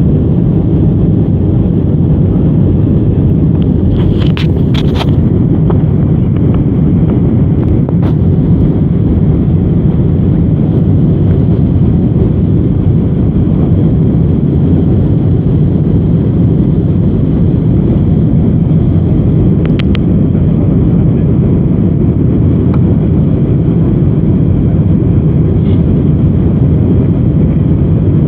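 Steady low rumble inside the cabin of an Airbus A319 airliner in motion: engine and airflow noise, with a few faint clicks.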